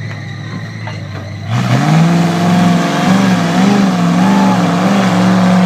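Mud-bog truck engine on 57-inch tires idling low, then opening up to full throttle about a second and a half in as the truck launches into the mud pit, running hard with its pitch wavering up and down as it pushes through.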